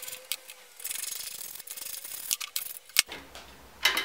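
Ratchet spanner clicking and metal rubbing as a part is unbolted from a small engine, with a sharp click about three seconds in.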